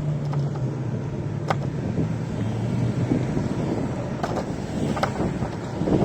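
City street ride noise from a scooter: a steady low hum of traffic and riding, with a few light ticks or rattles.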